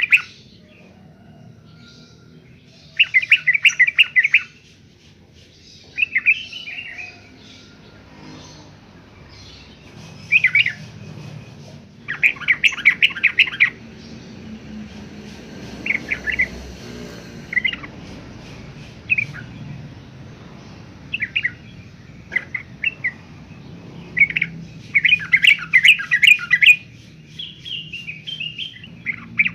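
Yellow-vented bulbul singing: bursts of quick bubbling notes about a second long, repeated every few seconds, with short single chirps in between, over a faint low hum.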